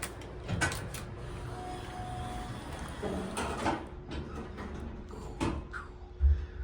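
Several short knocks and clatters, with a heavy low thump near the end.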